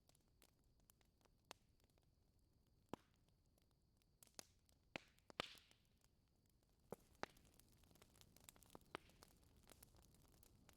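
Wood fire in a fireplace crackling faintly, with irregular sharp pops and a brief hiss about five and a half seconds in.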